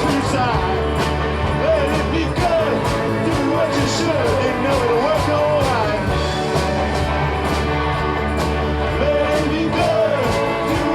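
Live rock band playing a steady uptempo song: drums hitting on an even beat under electric guitars, bass and organ, with a wavering pitched lead line over the top.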